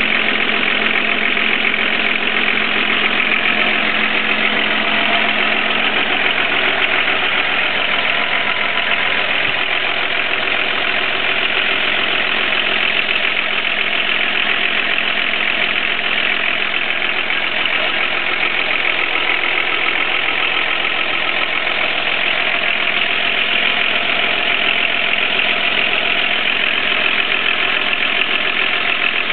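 Volvo 244's D24 straight-six diesel engine idling steadily.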